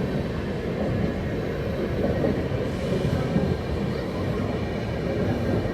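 Electric train running on the track: a steady rumble of wheels on rail.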